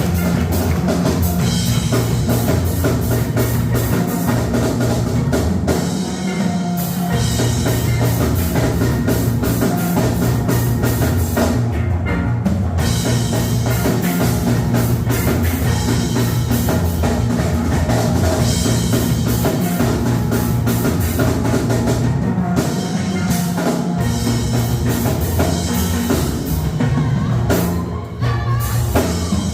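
A band playing upbeat music with a drum kit and a strong bass line, with short breaks in the beat about six seconds in and near the end.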